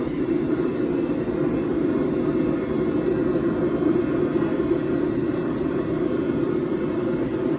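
Forge running with a steady, even rushing hum while a thick billet of 4140 steel heats in it, not yet ready for hammering.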